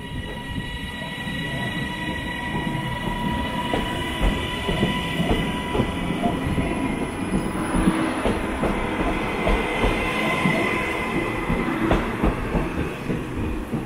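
TransPennine Express Class 397 electric multiple unit pulling out alongside the platform: a steady whine over a rumble, and repeated clicks from about four seconds in as its wheels run over the rail joints.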